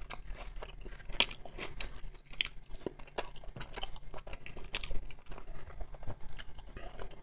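Close-up chewing of a roasted potato wedge, with many short, soft wet clicks and smacks of the mouth at irregular intervals.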